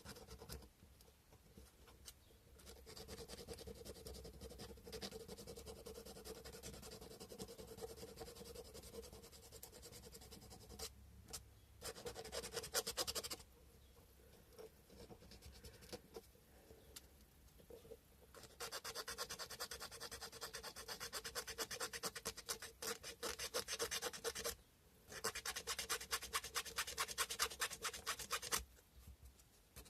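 Sandpaper rubbed by hand over a carved cow-bone fish hook, in runs of quick back-and-forth strokes with short pauses between them.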